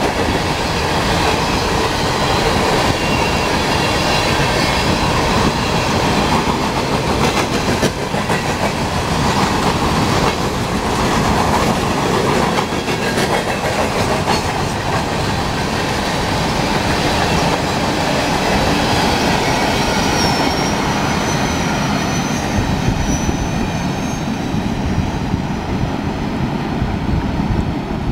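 Freight train cars rolling past with a steady clickety-clack of wheels over the rail joints, and a faint wavering wheel squeal about two-thirds of the way through.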